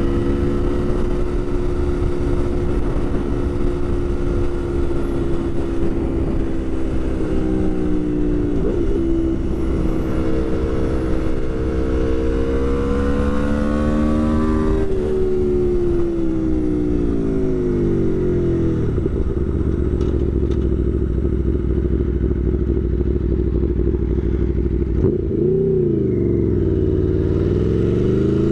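Aprilia Tuono V4 1100 Factory's V4 engine under way, heard with wind rush from inside the rider's helmet. It holds a steady pitch, revs up about halfway through, drops away as the bike slows, holds again, dips briefly and picks up again near the end.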